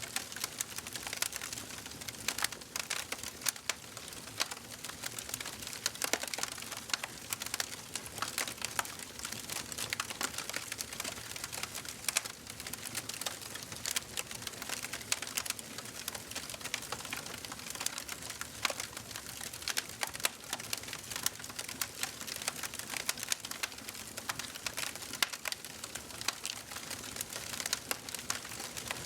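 Wood fire burning in a fireplace, crackling and popping steadily with a soft hiss, many small sharp pops every second.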